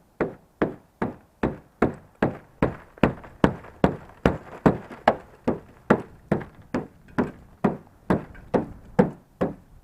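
Ice being knocked off a pickup truck: a steady run of hard blows, about two and a half a second, each one a sharp knock.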